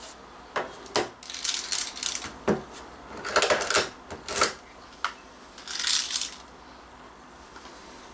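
Sharp clicks and short metallic rattles and scrapes, several in the first six seconds, from a spring BB pistol and metal gear being handled.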